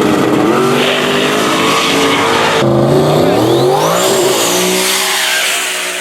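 Drag race car making a pass, its engine revving up hard, with a gear change about two and a half seconds in, then climbing again with a high rising whine before fading near the end.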